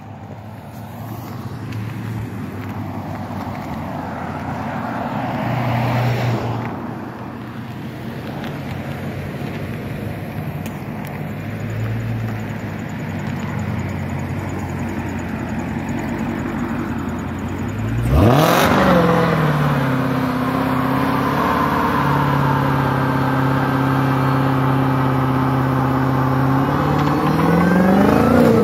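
Dodge Challenger SRT's Hemi V8 rumbling at low revs with a couple of short blips, then about two-thirds of the way in revving sharply up and held at high revs in a burnout, tyres spinning on the road. Near the end the revs climb again as the car launches.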